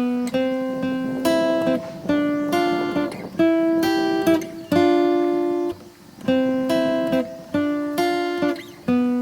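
Background music: strummed acoustic guitar playing a chord progression, a new chord about every second.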